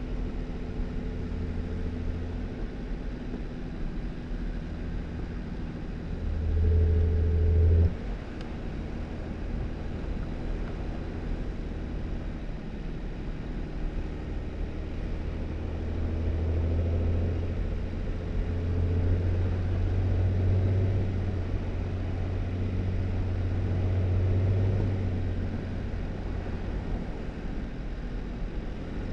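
2018 Jeep Wrangler driving on a snowy dirt road: a steady low engine hum with tyre noise. The engine swells louder about six seconds in and drops off suddenly a second or so later, then rises again for a longer stretch in the second half.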